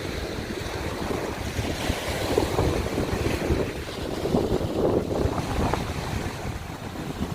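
Small waves breaking and washing over a shore of broken scallop shells, a continuous rushing wash that swells a couple of times, with wind buffeting the microphone.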